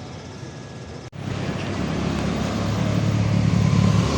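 A road vehicle's engine rumbling and growing steadily louder as it draws near, after a brief cut-out about a second in.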